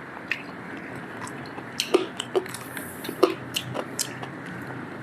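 A person biting and chewing charcoal-grilled chicken close to the microphone: a run of short sharp mouth clicks and smacks from about two seconds in, over steady background noise.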